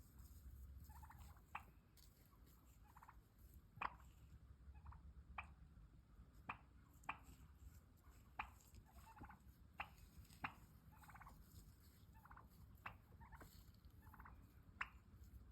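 Turkey clucks and purrs: about a dozen sharp single clucks at irregular intervals, with short soft rolling purrs between them.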